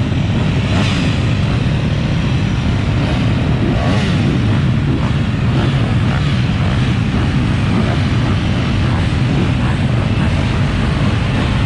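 Dirt bike engine running steadily, a dense low rumble with no clear pauses.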